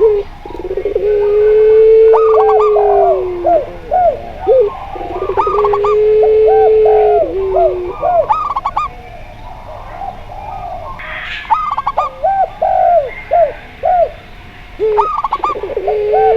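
Zebra dove, spotted dove and Barbary dove (puter pelung) calling together. Long, drawn-out low coos come three times: near the start, about six seconds in, and near the end. Quick rising-and-falling higher notes run between them.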